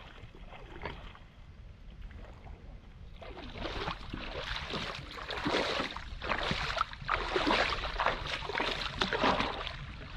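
Water splashing and sloshing in irregular surges, faint at first and busier from about three seconds in.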